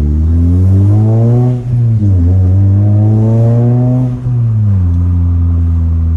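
Toyota Celica GT-S's 1.8-litre four-cylinder accelerating hard: engine pitch climbs, drops briefly at a gear change about two seconds in, climbs again, then falls back to a steady drone near the end.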